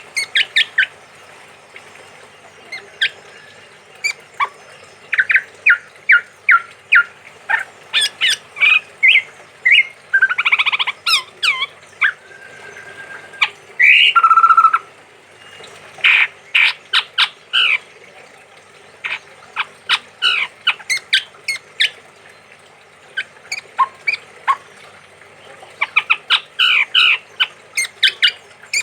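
Male chestnut-rumped babbler calling persistently: quick series of short, sharp whistled notes, with a longer harsh, buzzy call about ten seconds in and another near the middle.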